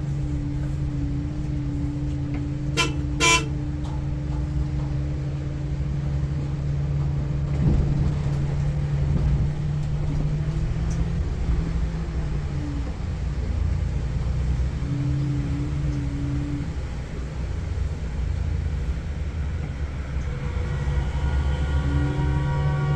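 Volvo B8R six-cylinder diesel of a Volvo 9600 coach running steadily under load on a ghat climb, with two short horn toots about three seconds in and a longer horn sounding near the end.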